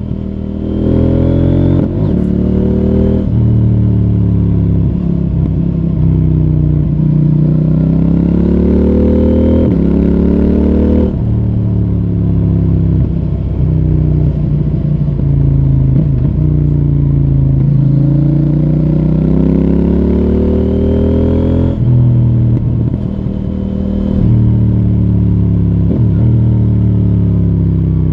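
CFMoto 800NK Advanced's parallel-twin engine through its stock exhaust under way, its pitch climbing as it accelerates and dropping suddenly at several gear changes, with stretches where it falls away as the throttle is rolled off.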